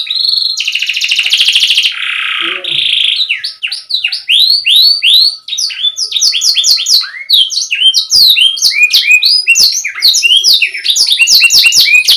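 Domestic canary singing loudly and continuously: a fast trill about half a second in, a lower trill around two seconds, then quick runs of repeated sweeping notes.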